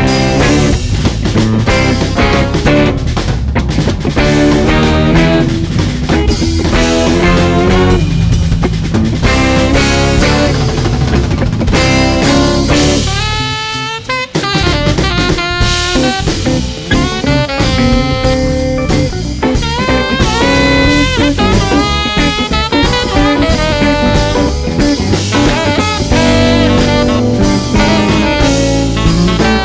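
Live band playing an instrumental stretch of an original song, with drum kit and guitar. The music drops back briefly about fourteen seconds in, then the full band comes back in.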